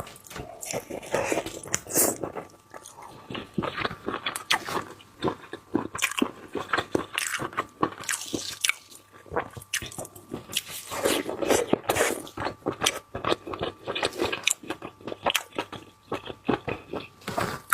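Close-miked biting and chewing of seafood, a dense run of crisp, irregular crunches and clicks.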